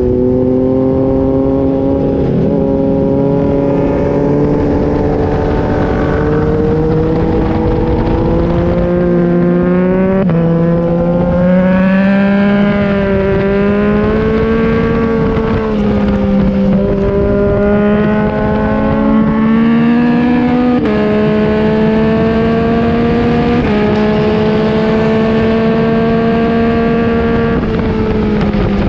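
2021 Yamaha MT-09's three-cylinder engine through an Akrapovic exhaust, heard onboard at track pace. The engine note climbs and eases with the throttle and jumps abruptly four or five times at gear changes.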